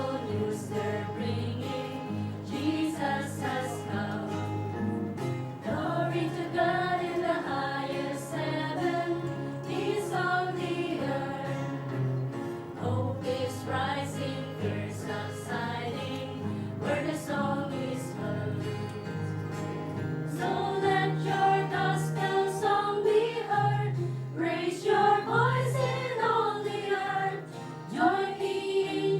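A group singing an upbeat Christmas worship song together, with acoustic guitars strumming along.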